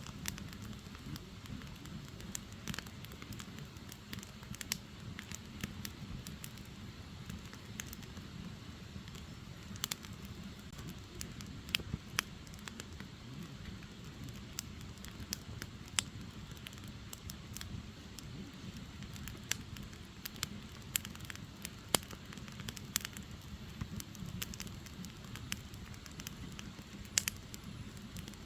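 Firewood burning: a steady low rushing of the flames with irregular sharp crackles and pops, a few of them louder than the rest.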